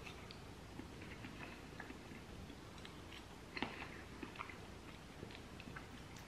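A person chewing a mouthful of chickpea penne pasta in meat sauce: faint, irregular wet mouth clicks, with one louder click about three and a half seconds in.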